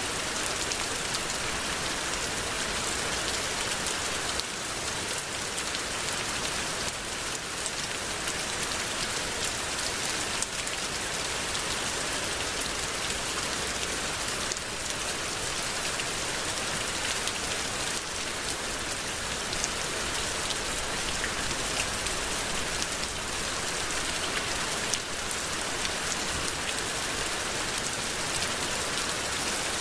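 Steady rainfall: an even hiss of rain with many individual drops ticking on a surface.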